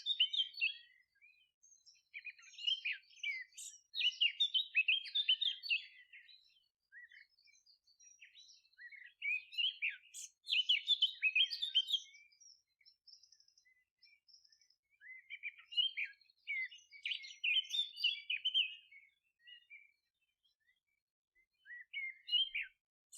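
Songbirds twittering in phrases of quick, high chirps, each phrase lasting two to four seconds with short pauses between.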